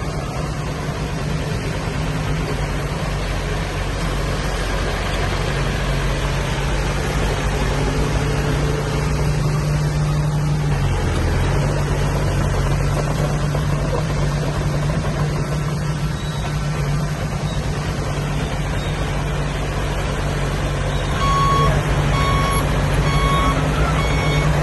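Heavy diesel machinery engine running steadily at a constant pitch. Near the end a truck's reversing alarm starts beeping, about one beep a second.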